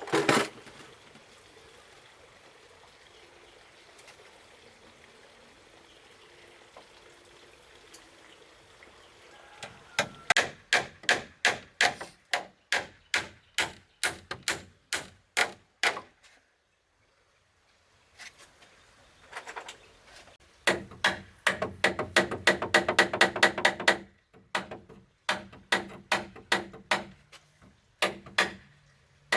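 Repeated hammer strikes on wood, each with a short ringing tone, in runs of about two to three blows a second. The blows stop briefly, then come faster for a few seconds and continue in shorter runs.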